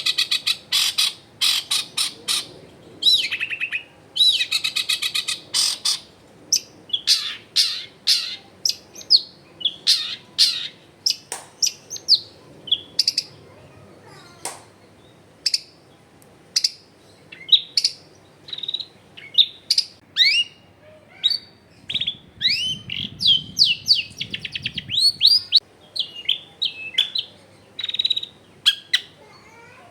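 Long-tailed shrike (cendet) singing a varied song rich in mimicked notes: a steady string of short sharp chips and whistles broken by buzzy rapid rattles near the start, a few seconds in, and again about two-thirds of the way through.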